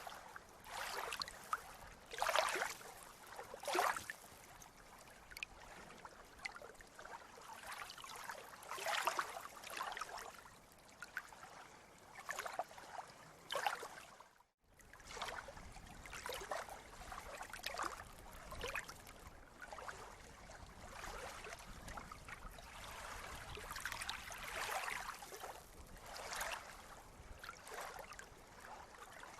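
Water splashing and gurgling in irregular surges over a steady wash. The sound cuts out for a moment about halfway through, then returns with a little more low rumble.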